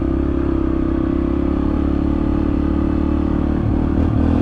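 Yamaha TT-R125 dirt bike's four-stroke single-cylinder engine running steadily under way, with a brief rise in revs near the end.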